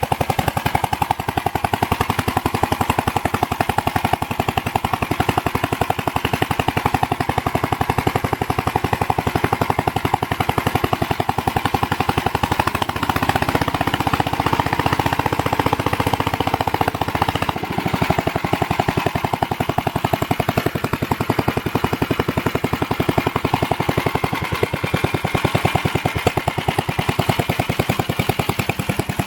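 Gravely Model LS walk-behind tractor's single-cylinder engine running steadily, its exhaust a fast, even string of pops. It runs without loud knocking or clicking, through a muffler that is getting pretty darn loud.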